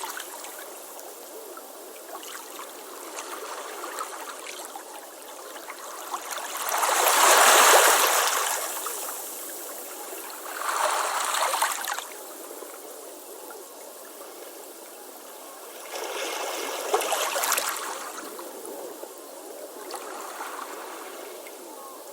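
Ocean waves washing onto a beach: a steady hiss of surf with four swells. The loudest comes in a little past a third of the way through, and smaller ones follow around halfway, three-quarters through and near the end.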